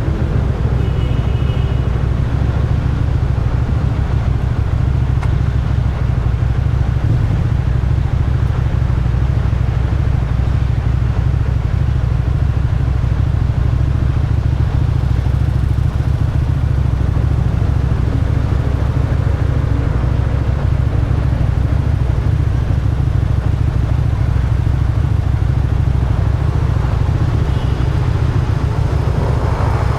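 Motorcycle riding along a road, its engine running steadily under a heavy low rumble of wind noise on the microphone, with a brief rise near the end.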